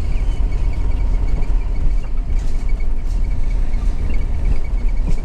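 Steady low rumble of a vehicle driving slowly: engine and tyre noise.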